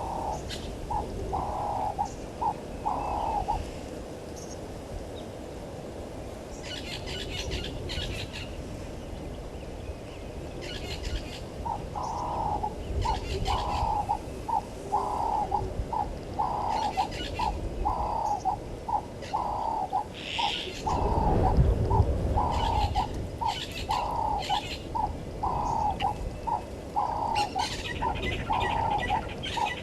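A dove cooing in a long series of short, evenly spaced notes, about two a second, with a pause of several seconds after the first few notes. Other small birds chirp in short bouts throughout, and a low rumble briefly swells about two thirds of the way through.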